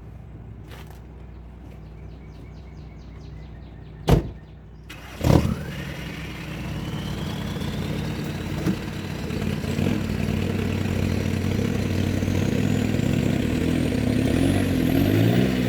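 Mini truck engine idling, two loud knocks about four and five seconds in, then the engine revving up and pulling under load, with a whine that rises slowly in pitch as it works to pull out the buckthorn.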